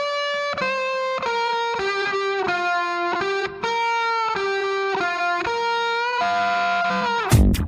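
Background music: an electric guitar with effects plays a melody of held single notes, changing about twice a second with no drums under it, and ends in a sliding downward bend.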